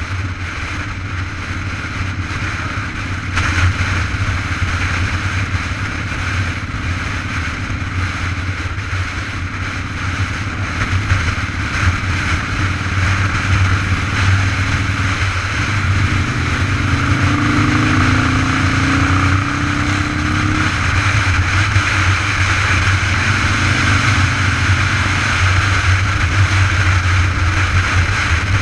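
Steady rush of wind and road noise while riding a bicycle. A motor vehicle passes about halfway through, its engine tone audible for several seconds before fading.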